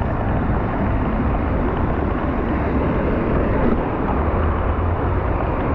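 Steady rush of wind buffeting the microphone, heavy and rumbling at the low end, with rain and wet-road hiss mixed in, while a mountain bike is ridden through a rainstorm.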